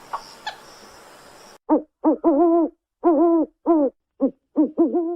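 Owl hooting: a run of about eight hoots, some clipped and some drawn out, each bending up and then down in pitch, starting about a second and a half in.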